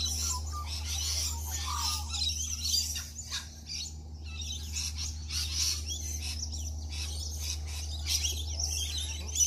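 Several birds chirping and calling over one another in quick, short high notes, over a steady low rumble.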